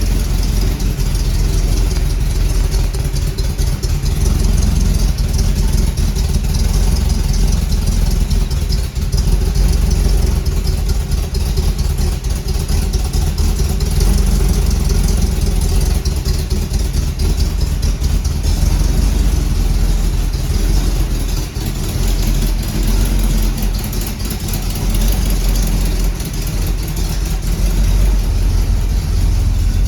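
A 350 cubic-inch small-block Chevrolet V8 in a 1939 Ford Super Deluxe, running steadily with a constant hiss over its low exhaust note.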